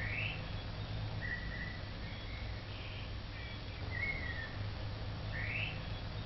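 Bird calls: short whistled notes, some held level and some rising quickly, repeating every second or two over a steady low hum.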